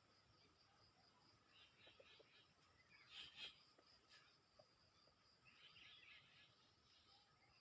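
Faint forest ambience: scattered bird calls over a steady, high insect drone. The loudest burst of calls comes about three seconds in, with another cluster near six seconds.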